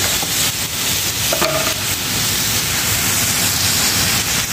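Liver, meat and eggplant frying in an open pan, a steady sizzling hiss, with one short knock about a second and a half in.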